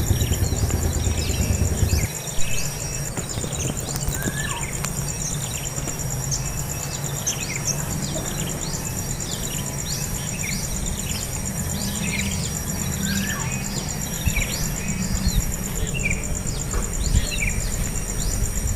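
Small birds chirping over and over, short falling chirps at one or two a second, over a steady high insect trill and a low rumble.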